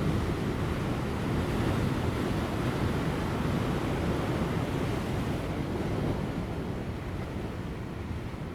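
Large ocean waves breaking on rocks: a steady wash of surf that eases a little in the last few seconds, with light wind on the microphone.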